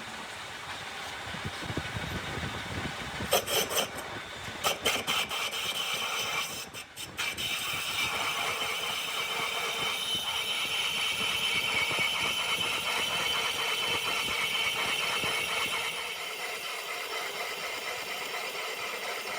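Factory machining noise: machinery running with a steady scraping, rasping sound of metal being worked. A few sharp clacks come about three to five seconds in, and the sound drops out briefly just before seven seconds.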